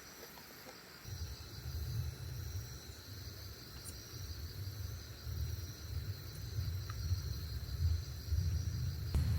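Crickets chirping steadily in a high, continuous trill. About a second in, a low, uneven rumble joins and grows louder toward the end.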